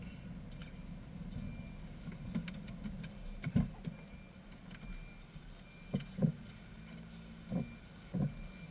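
BMW M3's 4.0-litre V8 idling steadily, heard from inside the cabin, with about five short thumps scattered through the second half.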